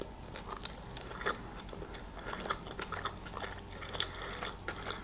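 Close-miked chewing of a mouthful of beef burger: a string of soft, irregular clicks and smacks from the mouth.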